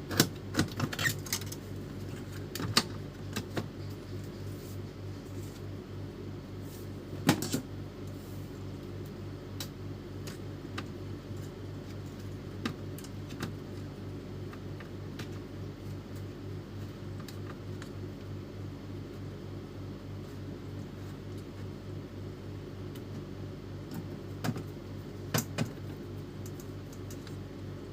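Epson L310 inkjet printer under test after a motor cable swap: a steady low hum with scattered clicks, one sharp knock about seven seconds in and a few more clicks near the end.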